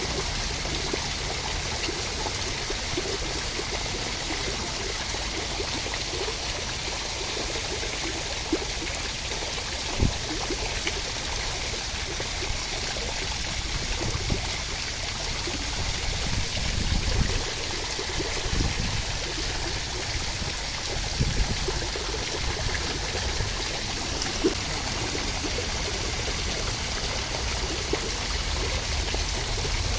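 Steady rain, an even hiss of falling water, with a few sharper drips or taps and some low thuds in the middle.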